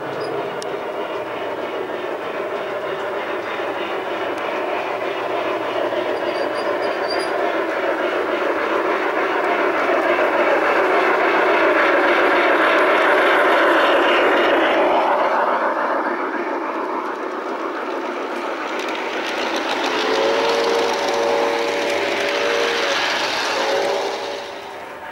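Garden-scale model train running past on its track, the running noise swelling to a peak about halfway through and then fading. Near the end it sounds two chord-like toots of its horn or whistle.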